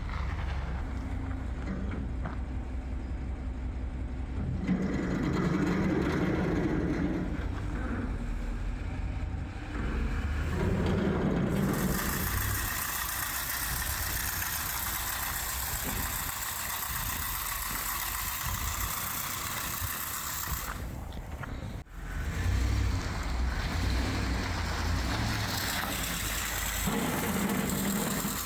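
Plow truck's engine running with a steady low rumble that swells now and then, joined for long stretches by a steady hiss.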